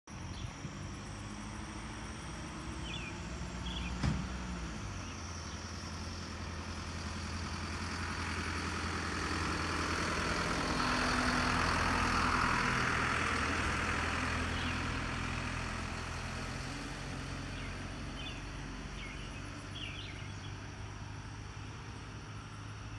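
UPS delivery truck engine running steadily at idle, with a single sharp knock about four seconds in. A broad rush swells to a peak around the middle and fades again, and insects chirp faintly.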